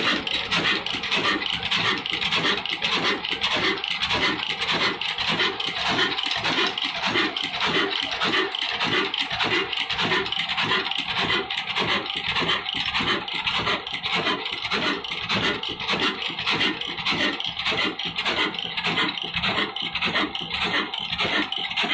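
Old 22 HP Ruston Hornsby diesel engine running steadily with a rapid, even beat, driving an atta chakki flour mill whose grinding adds a dense scratchy hiss.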